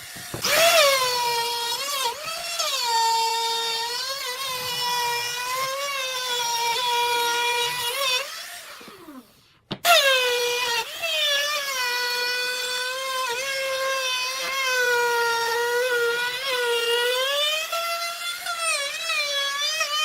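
Electric woodworking power tool motor whining as it cuts, its pitch sagging and wavering under load. Near the middle it is switched off and spins down, then starts again suddenly and cuts on.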